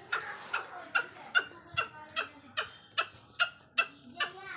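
Aseel chickens clucking: a quick, regular run of short, sharp calls, about two or three a second.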